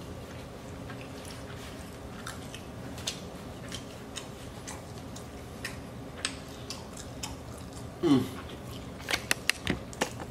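Person chewing food close to the microphone, with faint wet mouth clicks over a steady low hum. About eight seconds in there is a brief falling-pitch sound, then a few louder sharp clicks.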